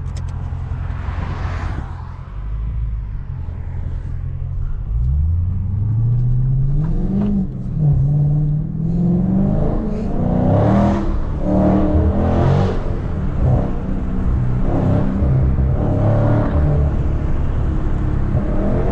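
Dodge Scat Pack's 392 HEMI V8 engine, running low and steady at first, then from about five seconds in pulling hard: the revs climb, drop at each upshift and climb again several times.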